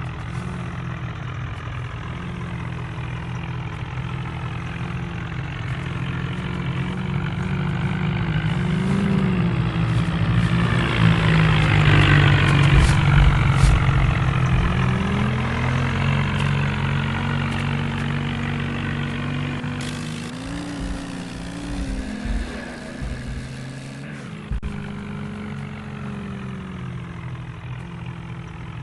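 HMT tractor's diesel engine running, its pitch rising and falling a little, growing louder toward the middle and fading again.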